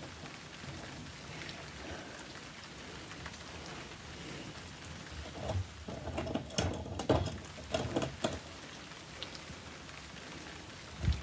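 Light clicks and rustles of small plastic toy pieces being handled and set against a plastic toy horse stable, bunched past the middle, with a dull thump near the end, over a steady faint hiss.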